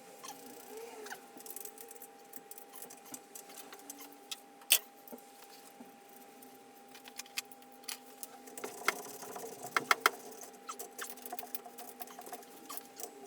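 Hand tools clicking and clinking on metal while the exhaust manifold is bolted onto a VR6 engine: scattered small clicks, one sharp knock a little under five seconds in, and a quick run of clicks around ten seconds, over a faint steady hum.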